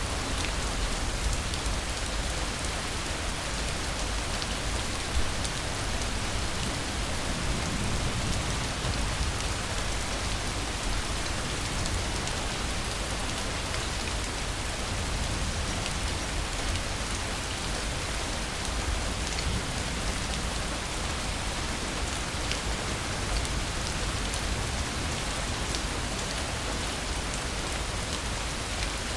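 Steady rainfall, a constant patter of drops hitting surfaces, with a low rumble underneath.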